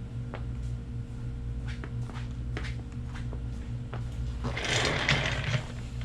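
Light clicks and knocks of parts being handled over a steady low hum, with a louder noisy burst lasting about a second near the end.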